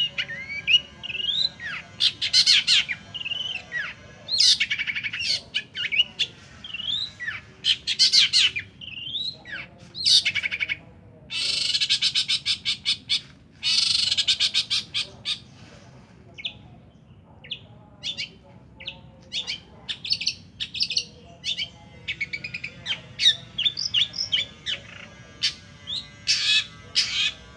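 Long-tailed shrike (pentet) singing a varied, chattering song of quick chirps and whistled slides, broken about eleven seconds in by two long harsh rasping calls, then rapid runs of short notes.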